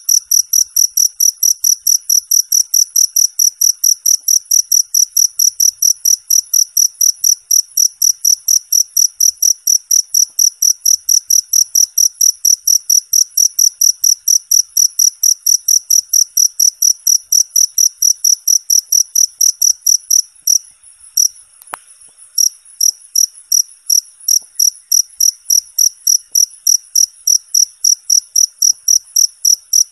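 Cricket chirping loudly in an even, fast run of about three chirps a second, with a short stumble in the rhythm a little past two-thirds of the way through.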